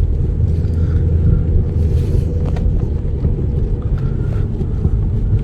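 Chevy Cruze being driven, a steady low rumble of engine and road noise, the car running smoothly after a turbocharger replacement.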